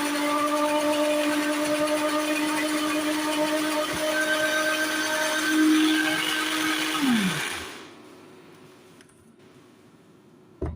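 Electric kitchen blender running steadily, blending a banana, lemon, egg and oil hair-mask mixture. It is switched off about seven seconds in, and the motor winds down with a falling pitch. A single click comes at the very end.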